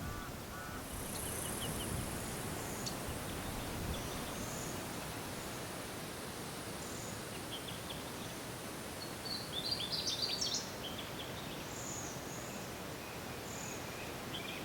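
Natural outdoor ambience: a steady background hiss with a thin high insect buzz through most of the first ten seconds. Small birds give scattered short chirps throughout, with a quick burst of chirping about ten seconds in.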